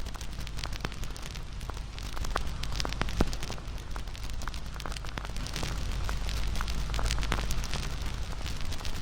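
Wood bonfire crackling: many irregular pops and snaps over a steady hiss and low rumble of the burning fire, with the sharpest snap about three seconds in.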